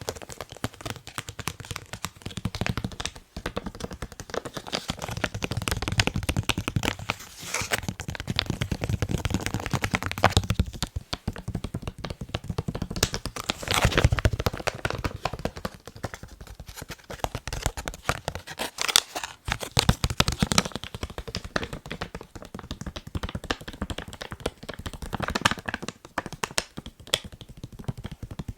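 Fast tapping on a face mask: a dense, rapid run of small taps, louder in spells, loudest about halfway through.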